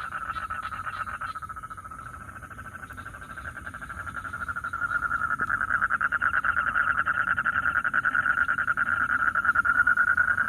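Male toads calling in a continuous rapid, pulsing trill: the mating call that the catcher expects to bring tadpoles. It fades a little about two seconds in, then swells louder from about five seconds as more calls join.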